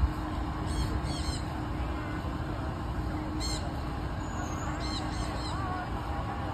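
Birds chirping in a few short bursts of high, arched notes over a steady low hum of city traffic.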